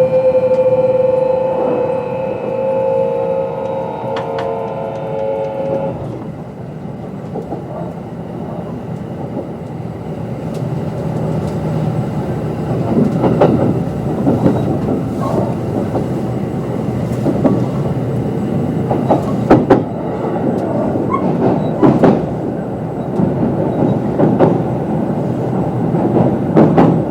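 Kintetsu 22600 series train's Mitsubishi IGBT-VVVF inverter and traction motors whining in several steady tones that sink slightly in pitch, then cut off about six seconds in. After that the car runs on with wheel-on-rail rumble and the clack of wheels over rail joints every few seconds.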